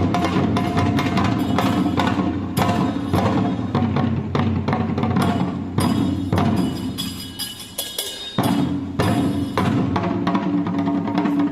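Live traditional Japanese percussion music: fast, steady drum strikes with ringing tones over them. The music thins out briefly about seven seconds in, then comes back in sharply.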